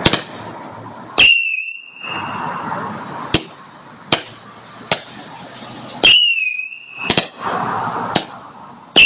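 Fireworks going off in a rapid finale: about nine sharp bangs, twice followed by a short high whistle that dips slightly in pitch, with a crackling hiss between the bangs.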